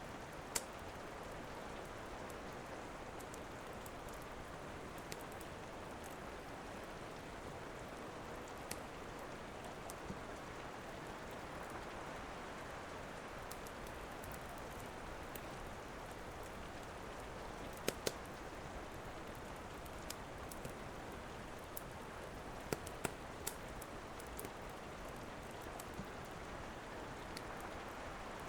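Steady rain falling, with scattered sharp pops and crackles from a wood fire, a few at a time; the loudest come in quick clusters about two-thirds of the way through.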